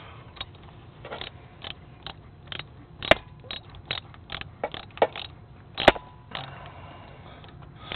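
Irregular sharp clicks and knocks of hand tools working on metal engine parts, two or three a second, with two louder knocks about three and six seconds in.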